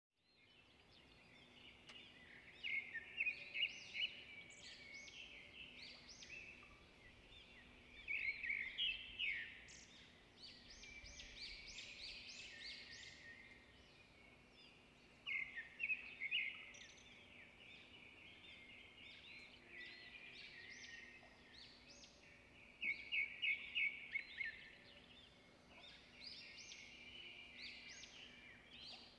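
Small birds chirping, in clusters of quick high chirps every few seconds, over a faint steady hum.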